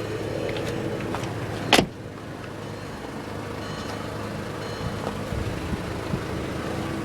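2007 Volkswagen City Golf's 2.0-litre four-cylinder idling steadily, loud from an exhaust leak under the car. A single sharp thump about two seconds in as the car door is shut.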